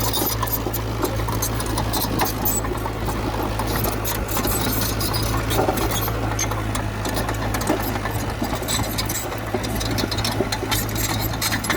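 Heavy earthmoving machinery's diesel engine running steadily, with a constant clatter of short clicks and clanks over the low rumble.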